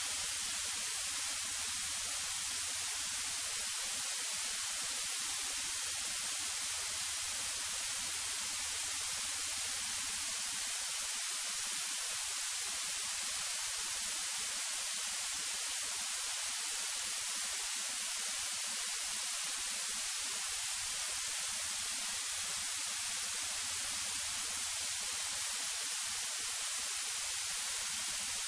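Steady, even hiss of static on the cockpit audio feed, with no engine or other event standing out.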